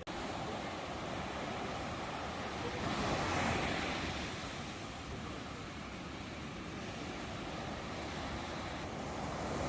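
Ocean surf washing onto a shore, a steady rush of waves that swells about three seconds in and again near the end.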